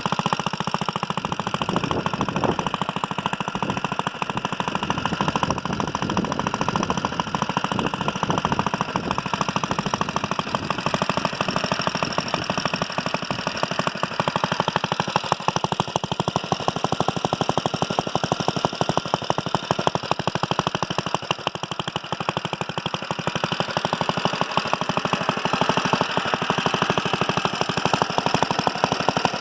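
1947 Briggs & Stratton Model N single-cylinder engine running steadily, with a fast, even beat of firing strokes, while it drives an F.E. Myers piston water pump. The engine has just been rebuilt and runs well, pumping water.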